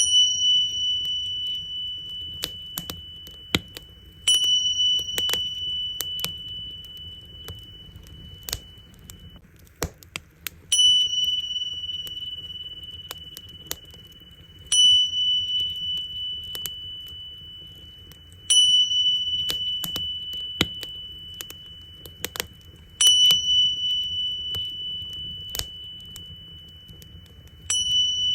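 Tingsha cymbals struck together seven times, every four to six seconds, each strike leaving a bright, high ring that fades slowly. Under them a bonfire crackles with scattered sharp pops.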